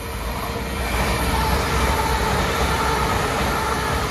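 Lumo Class 803 electric train approaching and passing through the station: a rumble of wheels on rails with a steady multi-note whine from its electric traction equipment. It gets louder about a second in as the train draws level.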